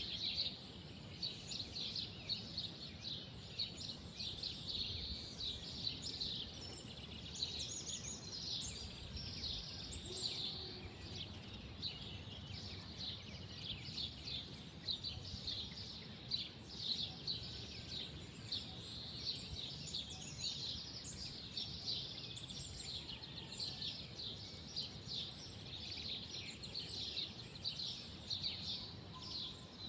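Many small birds chirping together in a dense, continuous chorus of short high calls, over a low steady background rumble.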